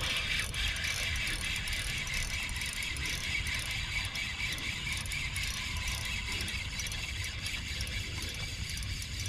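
Shimano 20 Twin Power spinning reel being cranked, with a steady run of fast, fine mechanical clicks.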